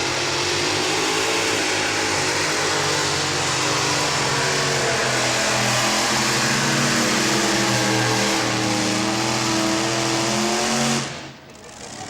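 Modified pulling tractor's engine running at full power through a pull, steady and loud, then dropping away suddenly about eleven seconds in.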